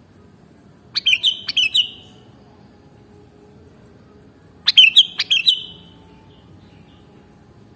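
Sooty-headed bulbul (kutilang) singing two short phrases of quick whistled notes, about four seconds apart.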